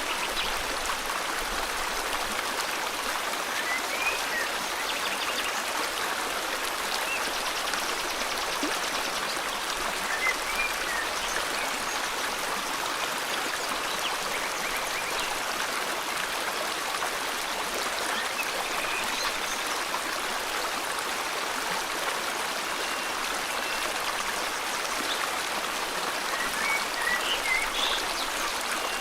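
A river flowing steadily, with a few faint bird chirps scattered through.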